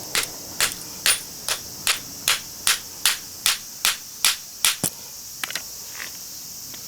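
Hammer blows on a steel chisel driven into a small transformer's iron core: about a dozen sharp, even strikes, roughly two and a half a second, then a few lighter taps. A steady high-pitched insect chirring goes on behind.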